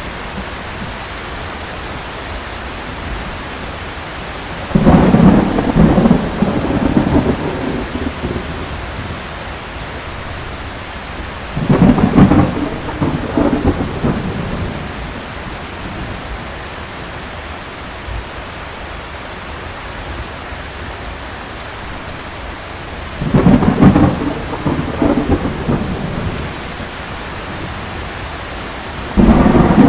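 Thunderstorm: steady heavy rain with three rolls of thunder, about five, twelve and twenty-three seconds in, each rising suddenly and rumbling for a few seconds, and another roll beginning at the very end.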